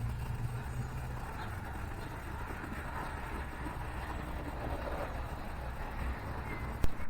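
Steady low rumble of distant road traffic. A single sharp click comes near the end.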